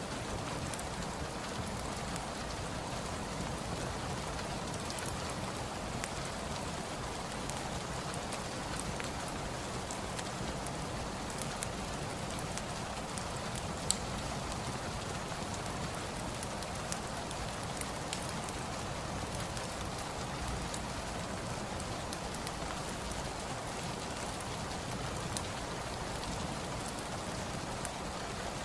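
Steady rain, with scattered crackles from a wood fire in a fireplace and one louder pop about halfway through.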